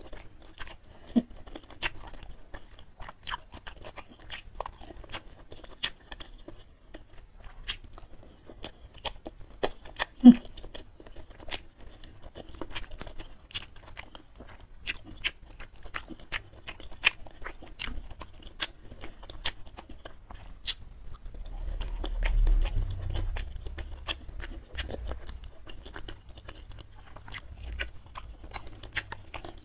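Close-miked chewing and mouth sounds of eating beef tendon meatball and instant noodles: many small wet clicks and smacks. The sharpest click comes about ten seconds in, and a low rumble swells briefly about two-thirds of the way through.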